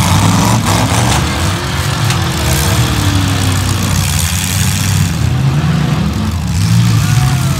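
Several demolition derby cars' engines running loud and revving together, the revs falling away about two to three seconds in, over a steady haze of exhaust noise.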